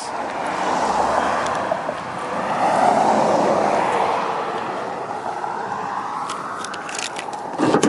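Rushing noise of road traffic going by, swelling about three seconds in and then slowly fading, with a few light clicks near the end.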